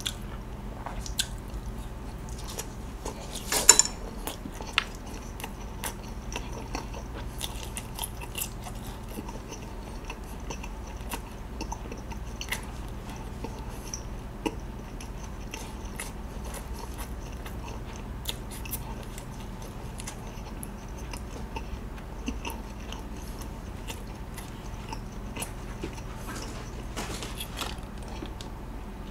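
Close-miked chewing and wet mouth sounds of someone eating a sauce-glazed charcoal-grilled chicken skewer, with many small soft clicks and one louder sharp click about three and a half seconds in.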